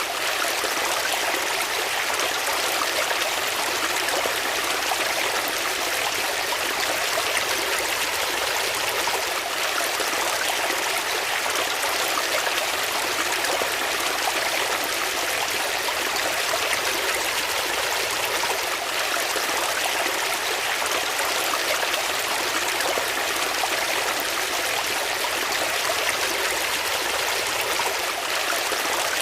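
Water flowing steadily, a continuous even rush of running water like a stream.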